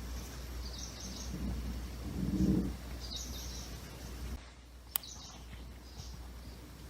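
Birds chirping in short high calls about once a second over a steady low hum, with a brief lower-pitched sound about two and a half seconds in and a sharp click about five seconds in.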